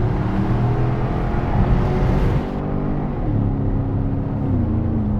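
Porsche Cayenne Turbo's twin-turbo V8 through a Tubi aftermarket exhaust, heard inside the cabin while accelerating: the engine note rises in pitch, drops at a gear change about two and a half seconds in, then rises again and falls off near the end.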